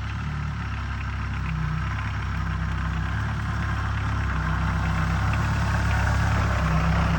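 Volkswagen Mk2 car engine idling steadily, slowly growing louder.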